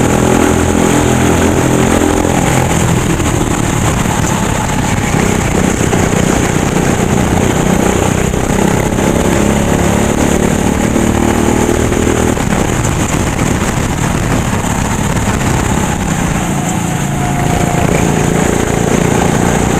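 Go-kart engine running close up, its pitch shifting as the throttle changes; about twelve seconds in, the engine note becomes rougher and less clear.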